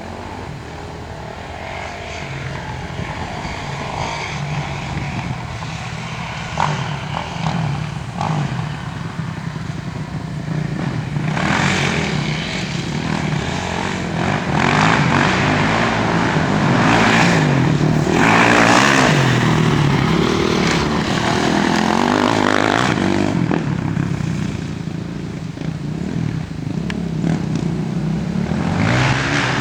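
Dirt bike engine running under way, its pitch rising and falling as the throttle is worked, with several bursts of rushing noise over it.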